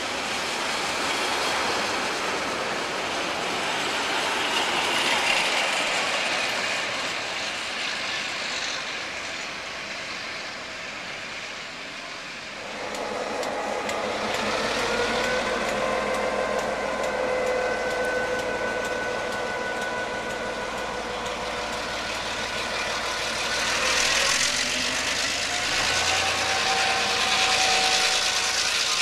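Passenger carriages rolling past with a steady rumble of wheels on rail. Then a DC-class diesel-electric locomotive's engine runs with a steady whine over a low hum. About twenty-five seconds in it gets louder and rises in pitch as the locomotive pulls its train away.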